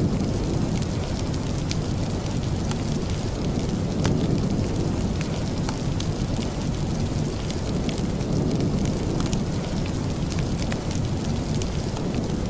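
Steady rain with a low, deep rumble, mixed with the frequent small crackles and pops of a wood fire burning in a fireplace.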